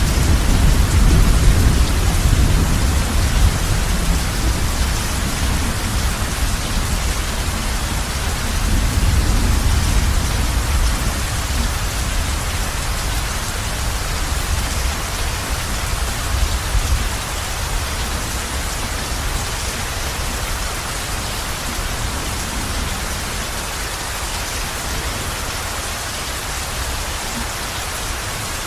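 Heavy rain falling on a roof, a steady hiss, with low thunder rumbling in the first few seconds and again about a third of the way in, then dying away.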